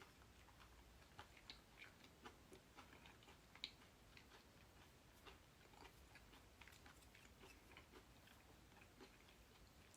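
Faint chewing, with scattered soft mouth clicks, one a little louder about three and a half seconds in.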